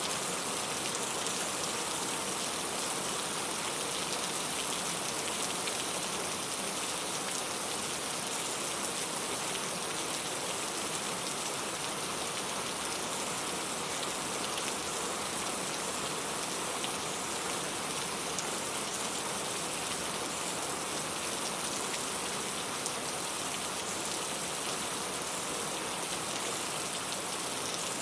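Steady rain falling, a dense even hiss of drops on a surface with many fine pattering ticks and no change in intensity.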